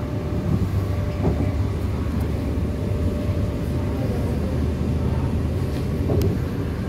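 Cabin sound of a CAF-built diesel multiple unit running at speed: a steady low rumble from the wheels on the rails and the underfloor engine, with a faint steady whine that fades out about halfway through.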